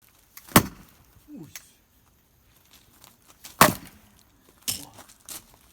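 Axe splitting firewood: two loud sharp cracks about three seconds apart, with lighter knocks of wood between and after them.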